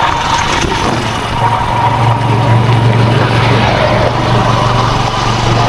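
Steady engine and road noise from a moving vehicle, with a constant low hum.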